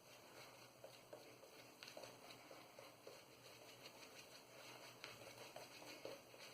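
Very faint, irregular wet patter and soft ticks of a boar-bristle shaving brush working shaving soap into a lather on the face, with drips of water being added; otherwise near silence.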